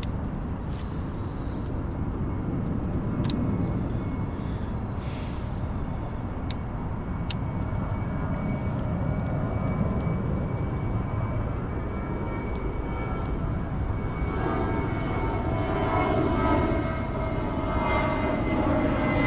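Aircraft engine drone overhead, building in the second half with a rising set of engine tones and a high whine that slowly drops in pitch, over a steady low rumble. A few sharp clicks in the first seconds.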